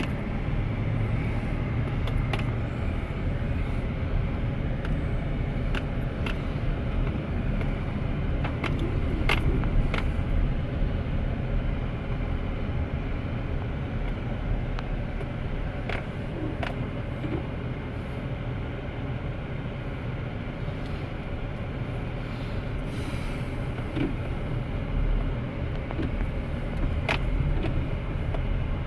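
Pickup truck running, heard from inside the cab as a steady low rumble, with occasional sharp knocks and rattles.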